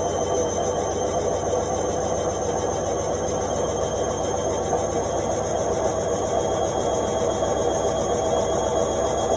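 Indesit washing machine on its spin cycle: the drum and motor make a steady whirring noise with a faint whine held on top.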